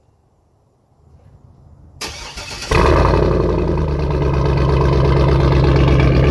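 A vehicle engine cranks on the starter for under a second, catches, and settles into a loud, steady run.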